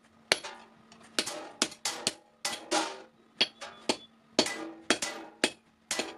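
Hand hammer striking a steel sickle blade being forged: a series of sharp, uneven metal blows, about two a second, each with a short ringing after it.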